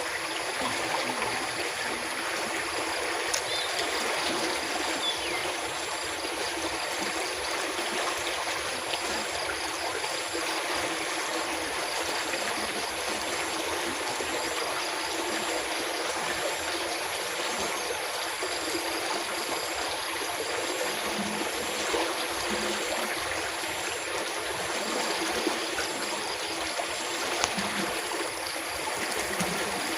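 Rain-swollen stream of water rushing steadily past, an even, unbroken flow.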